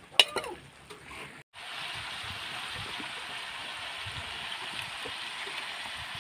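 Chopped frog meat frying in a hot wok: a steady sizzling hiss that starts abruptly about a second and a half in. A short voice sound comes just before it.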